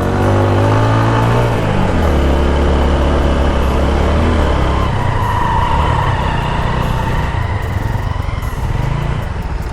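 Motorcycle engine running while riding, its pitch shifting a couple of times, over a steady hiss of wind and road noise.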